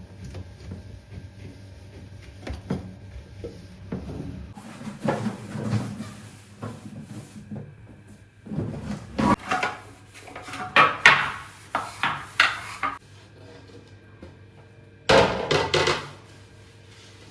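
Food containers and fridge drawers being handled: a run of knocks, clatters and sliding sounds as items are set down and drawers moved, busiest past the middle and again near the end.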